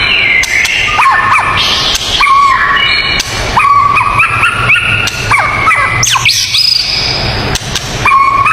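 Several songbirds whistling and chirping together in a dense, unbroken chorus of quick rising and falling notes and short held whistles at changing pitches.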